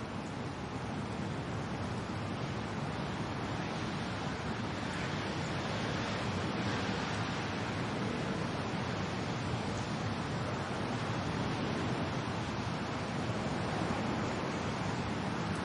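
Steady wind and rain, an even rushing noise that grows slowly a little louder.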